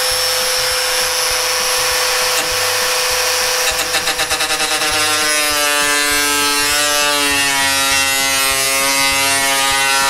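Small high-speed power tool whining steadily while it scores the steel of an old circular saw blade, with a hiss from the cut. From about halfway through, its pitch sinks slowly as the cut loads the motor.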